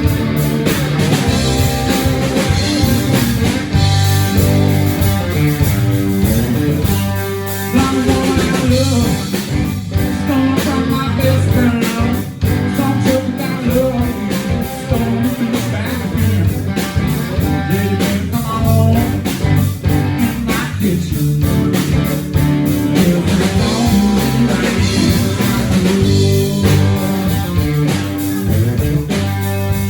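A live blues-rock band playing: guitar over a steady bass line and drum kit, with no break in the music.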